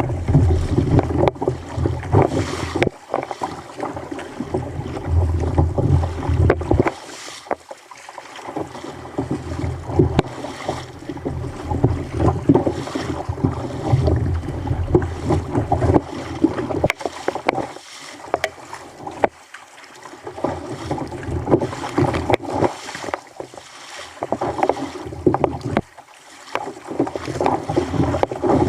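Water sloshing and splashing against a fishing kayak's hull on a rough sea, in uneven surges. Wind buffets the microphone with a low rumble for the first several seconds, then eases.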